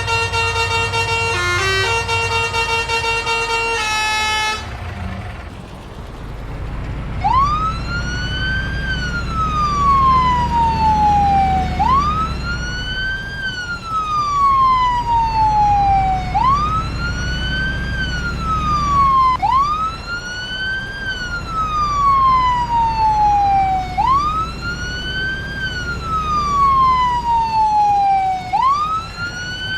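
A short electronic tune at the start, then from about seven seconds in a vehicle siren wailing: each cycle rises quickly and falls slowly, repeating about every four and a half seconds over a low engine rumble.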